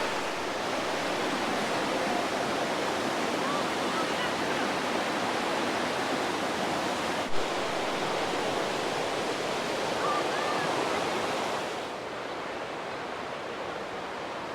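Whitewater rapids of a river rushing in a steady, full hiss. Partway through there is a brief click, and near the end the sound drops a little and loses its highest hiss.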